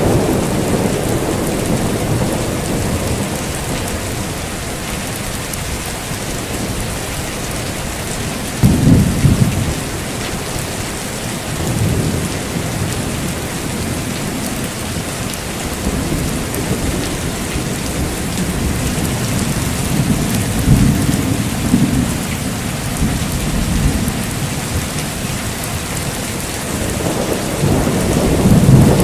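Heavy rain falling steadily, with rolling thunder rumbling several times: a short loud crack-and-rumble about nine seconds in, further rolls around twelve seconds and past the twenty-second mark, and another building near the end.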